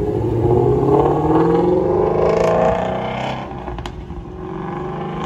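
Ford Mustang Shelby V8 accelerating hard as it pulls away, the engine's pitch climbing for about two and a half seconds, then dropping at an upshift and carrying on lower as the car drives off.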